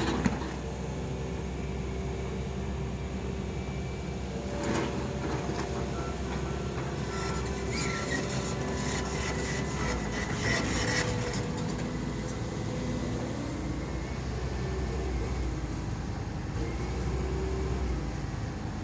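Demolition excavator's diesel engine running with a steady low rumble and a few held tones. Knocks and clatter of breaking masonry come once about five seconds in, then thickly from about seven to eleven seconds in.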